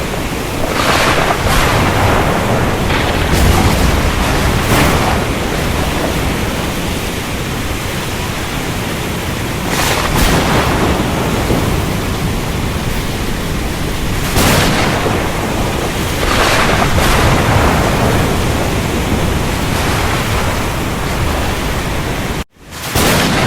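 Steady heavy rain with thunder rumbling through it, swelling up several times. The sound cuts out abruptly for an instant near the end, then resumes.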